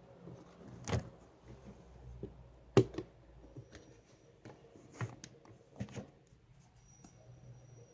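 Several sharp knocks and clicks, single or in pairs, a second or two apart.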